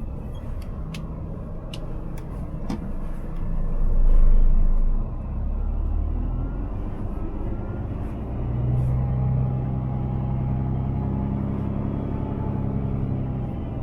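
Scania R500 truck's diesel engine running with a low rumble that swells briefly about four seconds in. From about two-thirds of the way through, a steady engine hum with a clear pitch comes up over it. A few light clicks sound near the start.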